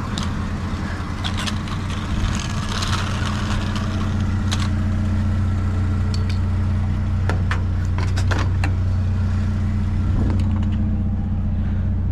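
Small pickup truck's engine running steadily, with scattered light clicks and rattles.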